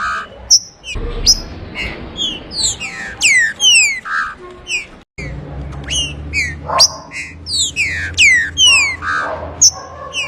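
Green-winged saltator (trinca-ferro) singing: repeated phrases of loud, clear whistled notes that slide downward in pitch, broken by a brief gap about halfway through.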